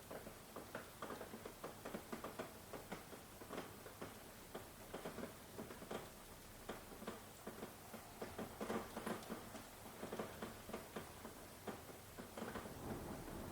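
Rain falling, with many irregular drops pattering and ticking close by.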